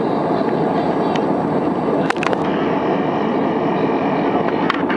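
Steady roar of an airliner cabin, with a few short clicks about two seconds in and again near the end.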